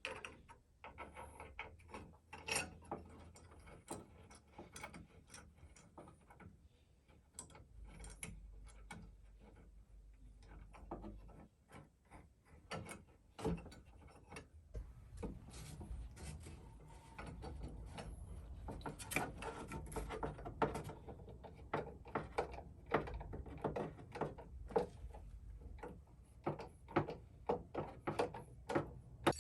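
Irregular knocks, clicks and rubbing of wooden furniture being worked on by hand, coming thicker and faster in the second half.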